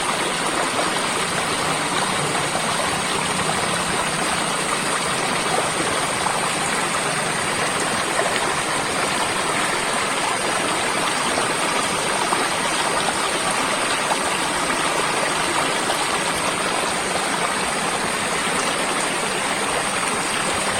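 Running water of a stream, flowing steadily without a break.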